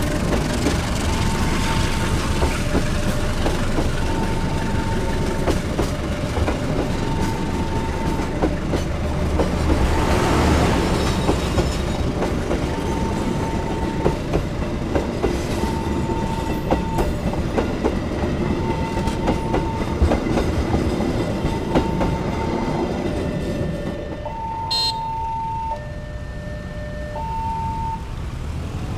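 Passenger coaches rolling past at close range over a level crossing, wheels clattering on the rails. Over this the crossing's warning alarm sounds a steady two-note chime, alternating between a higher and a lower tone. The train noise drops off near the end as the last coach clears the crossing.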